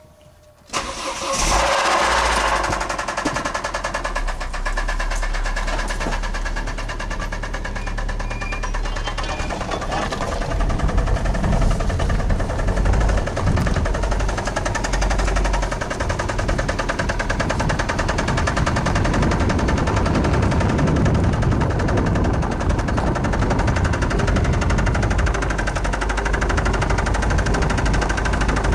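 1999 Saturn SL2's 1.9-litre twin-cam four-cylinder engine starting about a second in and then running with a steady knock in time with the engine, which the owner takes for rod knock.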